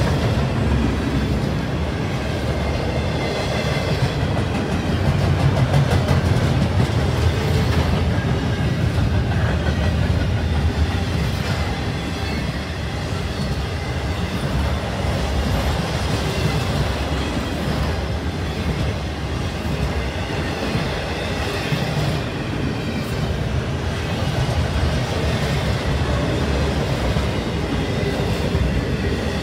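Double-stack intermodal container well cars of a freight train rolling steadily past on steel wheels, a continuous low rumble of the train on the rails.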